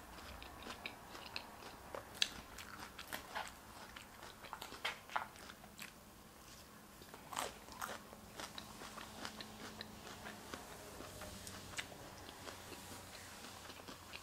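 A mouthful of chicken salad with crisp lettuce being chewed with the mouth closed: soft, irregular crunches and wet mouth clicks, picked up close by a clip-on microphone.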